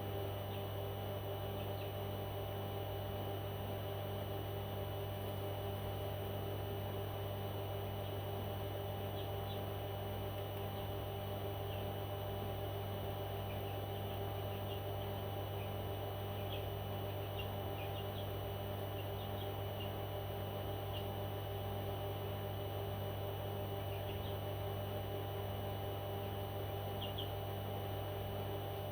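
A steady low electrical hum runs throughout, with faint, short, high chirps from a small pet parrot dotted through it from about ten seconds in.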